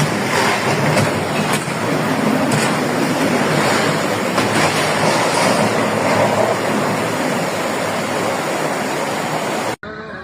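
Floodwater from a torrential rainstorm rushing in a steady, loud, dense roar of water; it cuts off suddenly near the end.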